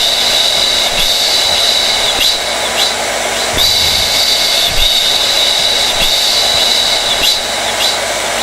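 Hair dryer running steadily: a loud rush of air under a high motor whine. The whine briefly wavers several times.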